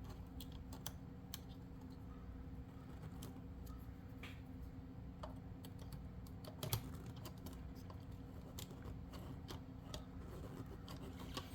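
Faint, scattered small clicks and taps of hard plastic parts being handled: a tiny plastic step being pressed into its slot on an H0 scale model railway coach, with one louder click about two-thirds of the way through. A steady low hum runs underneath.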